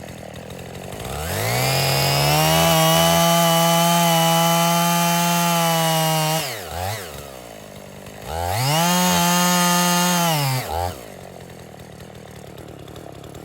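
Two-stroke chainsaw revved up to full throttle, held steady for about four seconds, then dropped back to idle. A second, shorter burst of about two seconds follows, and it settles back to idle near the end.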